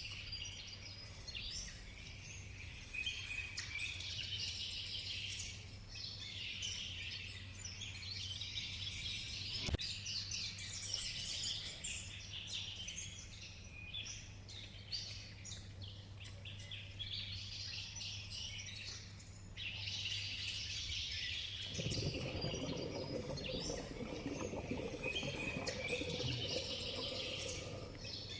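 Rainforest ambience: a dense chorus of birds chirping and calling, with insects, over a low steady hum. A single sharp click comes about ten seconds in, and a fuller, lower layer of noise joins about 22 seconds in.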